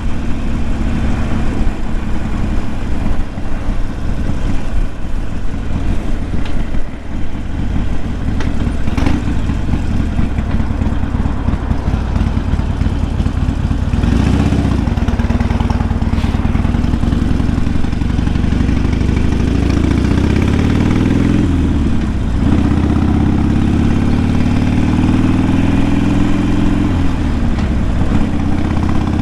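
Harley-Davidson Sportster's air-cooled V-twin engine running loud while riding. In the second half its pitch rises and falls several times with throttle and gear changes.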